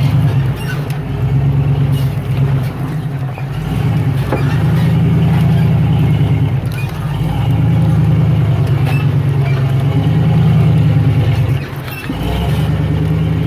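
Off-road vehicle engine working under load as it crawls up a rock ledge, the throttle applied in long pulls and eased off several times.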